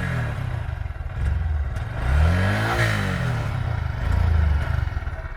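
2020 Honda Grom's 125 cc single-cylinder engine revved in throttle blips: one big rise and fall in pitch a little under three seconds in, and another blip near the end. The engine is still cold and wants more temperature.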